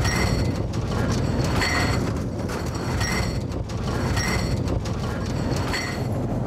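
Steady rumble of a caravan riding on railway track, with a rattling clank about once a second.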